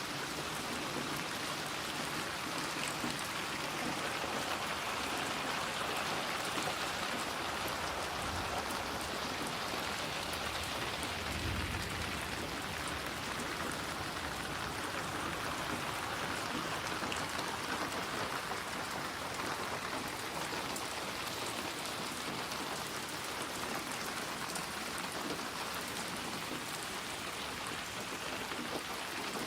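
Steady rain falling and pattering on surfaces, with a faint low rumble partway through.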